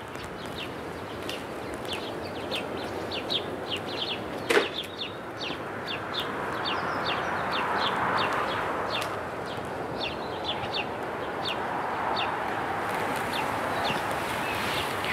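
Birds chirping in quick, short calls throughout, over a steady background hiss, with one sharper, louder call about four and a half seconds in.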